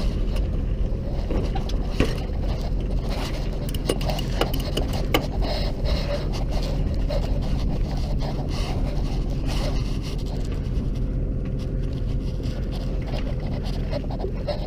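A sailboat's engine running steadily, under the scrapes, rattles and clicks of the mainsail being hoisted again. The clicks are busiest in the first half.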